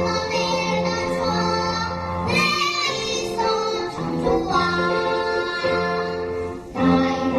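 A child singing a Korean children's song over instrumental accompaniment, with short pauses between phrases.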